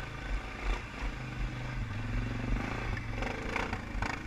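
All-terrain vehicle (quad) engine running steadily, its pitch wavering slightly as the throttle changes, with some rattling near the end.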